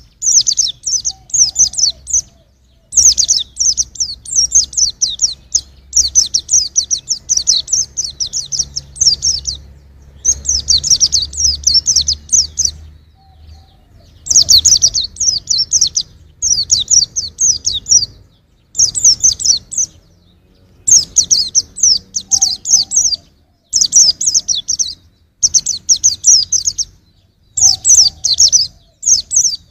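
A white-eye (pleci) singing: rapid, high twittering phrases a second or two long, repeated again and again with short pauses between them, over a faint low hum.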